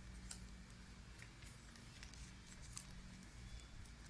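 Near silence: a few faint crisp ticks and rustles of paper being creased and folded by hand, over a low steady hum.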